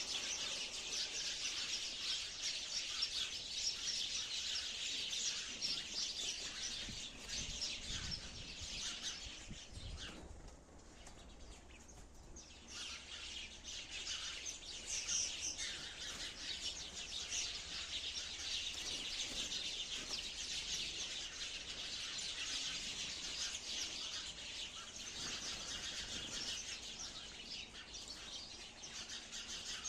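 A flock of sparrows chirping in a dense, continuous chatter, with a brief lull about ten seconds in.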